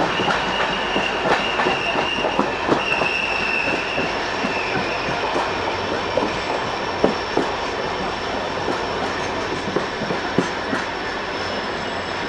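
A train running on the Konkan Railway line, with a steady rumble and irregular clicks from the wheels over the rails. A high wheel squeal sounds over roughly the first four seconds, then fades.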